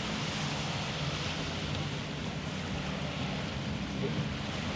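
Steady beach ambience: an even wash of surf and wind, with a low steady hum underneath.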